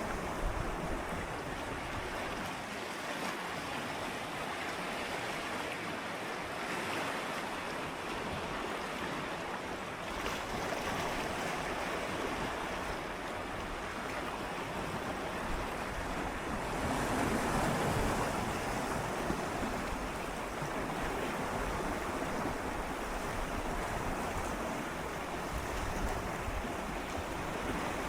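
Gentle sea waves lapping and swirling against shoreline rocks, a continuous wash of water that swells a little about two-thirds of the way through.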